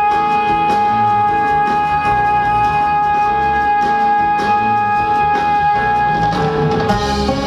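Launeddas, the Sardinian triple-pipe reed instrument, playing a quick melody over a steady held drone that never breaks for breath. The drone stops about six seconds in.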